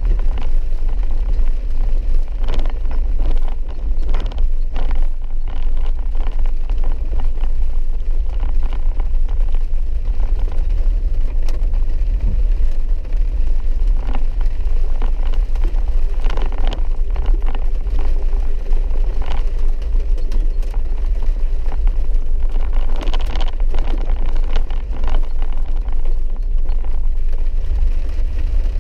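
Steady low rumble of a four-wheel-drive vehicle's engine and tyres heard inside the cabin while driving a wet dirt road, with many scattered short clicks and knocks throughout.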